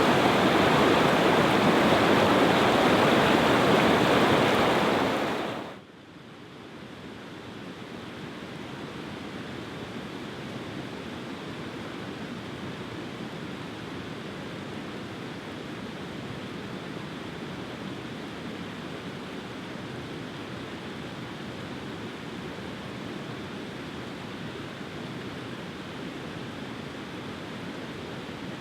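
Loud, steady rushing water that cuts off abruptly about six seconds in, giving way to a quieter, even hiss.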